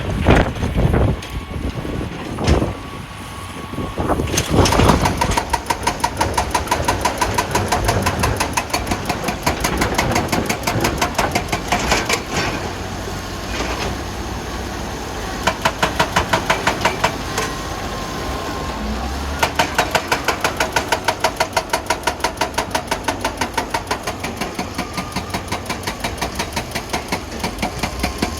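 Heavy wheel loader's diesel engine running with a fast, even pulsing clatter that grows stronger near the middle and again in the last third. Several loud knocks come in the first few seconds.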